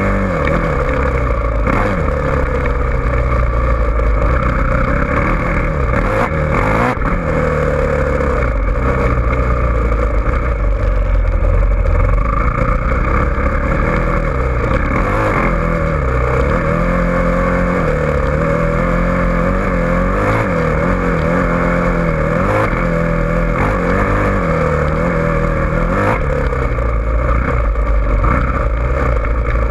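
Dirt bike engine running and revving up and down repeatedly, with the pitch rising and falling every few seconds.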